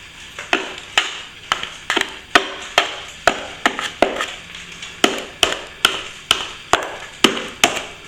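A plastering tool tapping against a ceiling crack in quick, even strokes, about two a second, as it presses and firms cornice cement into the crack.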